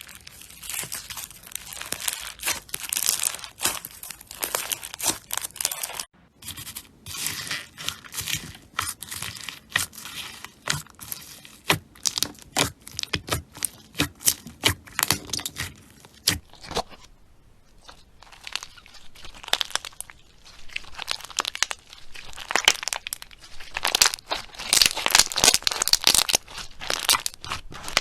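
Slime being squeezed, pressed and stretched by hand, giving a dense run of small crackles and pops. There is a brief break about six seconds in and a quieter stretch a little past the middle.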